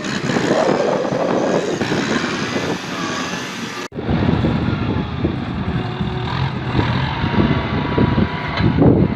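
Kubota tractor engine running steadily. The sound breaks off abruptly about four seconds in and resumes deeper and heavier.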